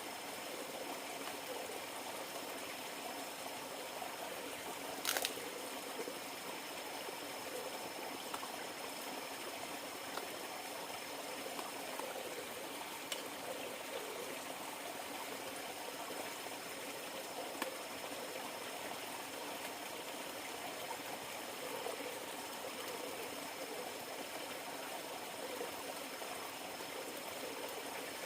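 River water trickling and flowing steadily, with a few sharp clicks or snaps, the loudest about five seconds in.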